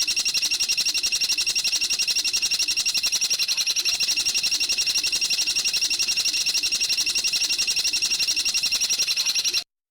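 A bird's high, rapid, even trill, held without a break for nearly ten seconds, which cuts off abruptly near the end.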